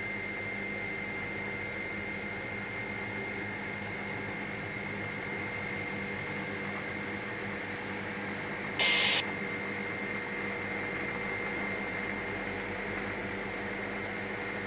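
Helicopter cabin noise: a steady hum carrying constant whining tones, with one brief burst of hiss about nine seconds in.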